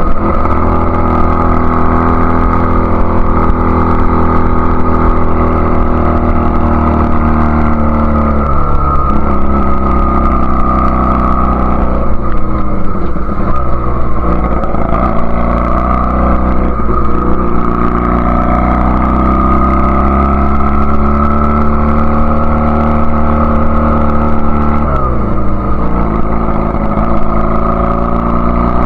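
1999 Honda Rebel CA125's 124 cc parallel-twin engine running through a free-flowing BSM/Highway Hawk aftermarket exhaust on a test ride. The engine note climbs steadily, then drops sharply at a gear change, about four times. The ride tests the Keihin PD carburettor's jetting after the needle clip was moved to position 1.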